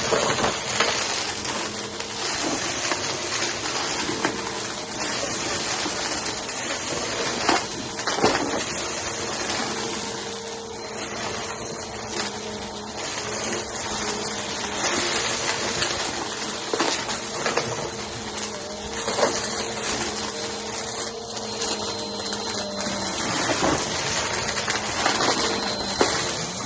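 Vacuum cleaner running over carpet: a steady motor hum and airflow hiss, with scattered sharp clicks and crackles of crunchy cereal bits being sucked up.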